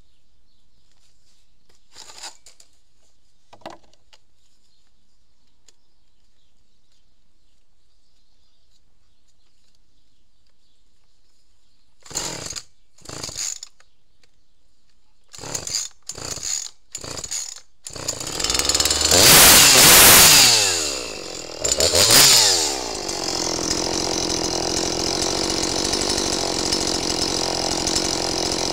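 Husqvarna 345 chainsaw's 45 cc two-stroke engine being pull-started: after a quiet stretch, five short rasps of the starter cord, then it catches on the next pull about eighteen seconds in. It is revved high twice and then settles into a steady idle.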